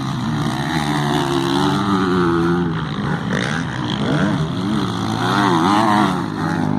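Several motocross motorcycles racing on the track, their engines revving up and down as the riders open and close the throttle, overlapping and rising and falling in pitch.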